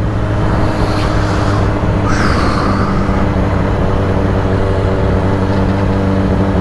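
2008 Yamaha R6's inline-four engine running steadily at low revs at slow riding pace. A short high squeal-like sound comes about two seconds in.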